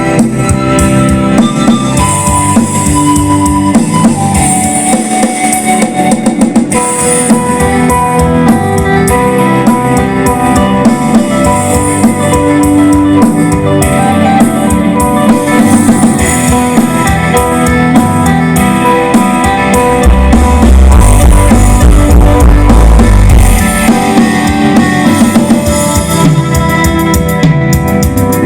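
A live band playing an instrumental passage during a sound check, with drum kit, guitar and keyboard; a heavy bass swell comes in about two-thirds of the way through.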